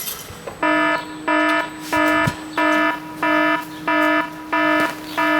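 Electronic beeper sounding a run of about eight even, pitched beeps, roughly one and a half a second, starting under a second in.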